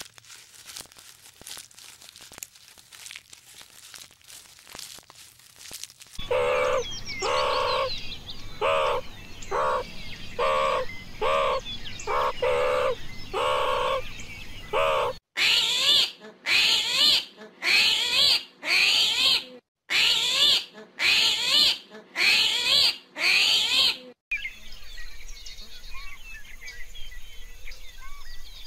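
Birds calling: after faint clicking, a run of short pitched calls at about one a second, then a run of sharper, higher calls, then lighter chirping near the end.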